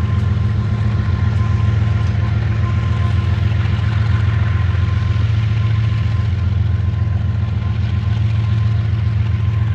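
Heavy engine running steadily at idle: a low, even drone with a fast fine pulse and a faint steady whine above it.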